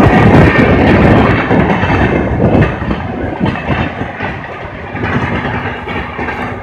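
Passenger coaches of a passing express train running over the rails, loud at first and fading about half-way through as the train draws away.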